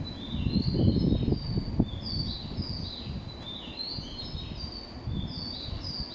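Bird-like chirping in short repeated phrases, a group of high chirps about every one and a half seconds. Under it the low rumble of a train on the rails, loudest in the first two seconds and then fading.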